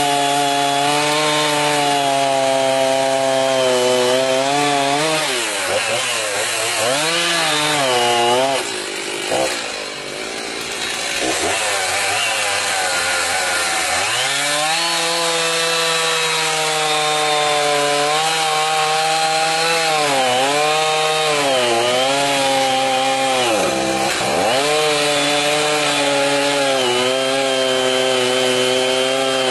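Chainsaw running at high revs while cutting firewood logs, its engine pitch sagging as the chain bites into the wood and rising again after each cut. About a third of the way in it drops back to quieter, lower running for a few seconds, then speeds up again.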